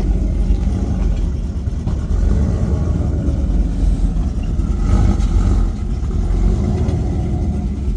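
A big truck's engine running low as it drives past, louder about five seconds in.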